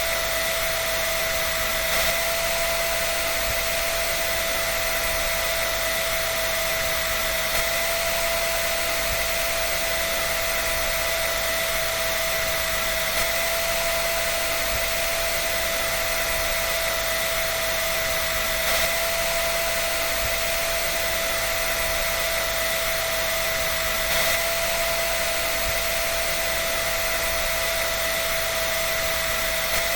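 Hair dryer running steadily: an even rush of air with a constant motor whine, unchanging throughout.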